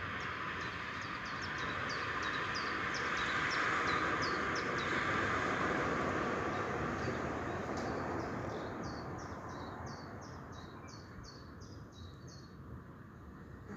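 A bird repeats a short descending chirp two or three times a second, over a rushing noise that swells over the first few seconds and then slowly fades.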